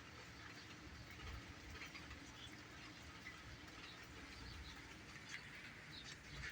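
Faint rain pattering, with scattered soft ticks of drops.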